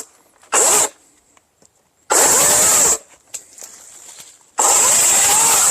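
EGO Power+ 56V cordless electric chainsaw running in three trigger bursts: a brief blip, then two longer runs about a second each. The motor and chain spin up and wind down in pitch with each squeeze of the variable-speed trigger, at a very fast chain speed.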